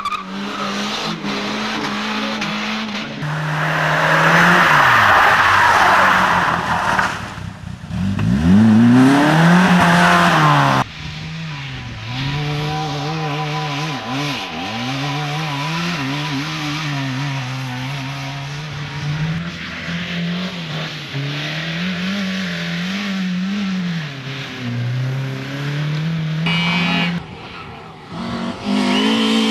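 Rally car engines revving hard, the pitch climbing and dropping through gear changes. About four seconds in and again about eight seconds in come loud rushes of tyre noise as a car goes by close, its engine note sweeping up then down.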